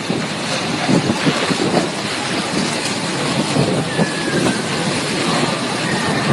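Typhoon wind and rain: a dense, steady rushing noise broken by many small knocks and buffets.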